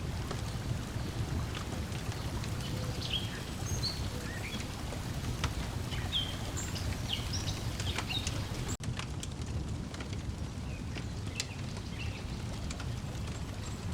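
Outdoor ambience mix: water lapping steadily under a wood fire crackling in scattered sharp pops, with small birds chirping now and then, the chirps mostly before a brief dropout about nine seconds in.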